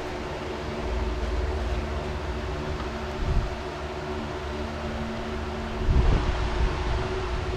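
Steady mechanical hum with a few held tones over a low rumble, broken by brief swells of wind on the microphone about three and six seconds in.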